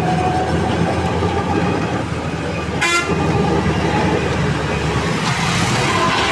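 Steady rumble of a moving vehicle, with a short horn toot about three seconds in.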